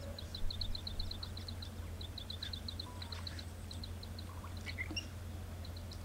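A small bird calling in quick runs of high chirps, about eight a second, in several short bursts with brief gaps, over a steady low rumble.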